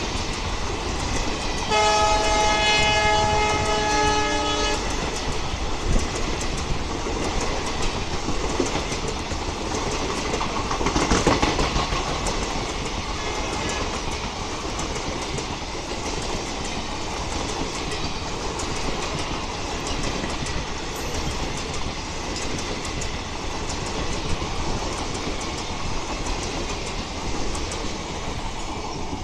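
Express train's passenger coaches running past at speed, with a steady rumble and rattle of wheels on the track. About two seconds in, a multi-tone train horn sounds for about three seconds.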